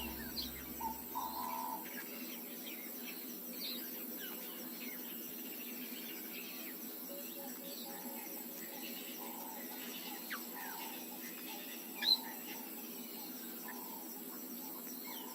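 Bush ambience of many birds chirping and calling over a faint steady insect chorus, with one brief louder call about twelve seconds in.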